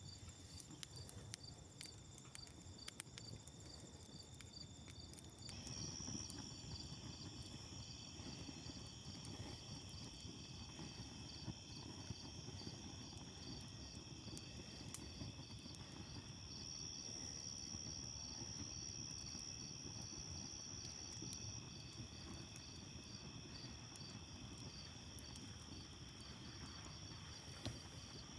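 Chorus of insects: several steady high-pitched trills, one of them pulsing evenly, with more voices joining about five seconds in.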